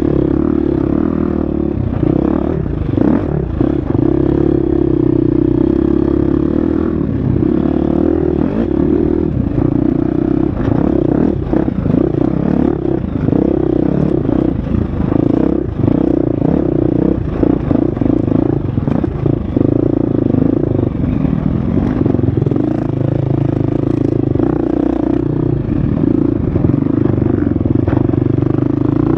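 Husqvarna FX 350 dirt bike's single-cylinder four-stroke engine running hard on an off-road trail, its pitch rising and falling with the throttle, with clattering knocks from the bike over rough ground.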